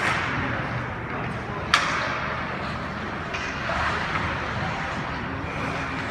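Game noise with a murmur of voices and one sharp, loud crack of an impact a little under two seconds in, followed by a fainter knock about a second and a half later.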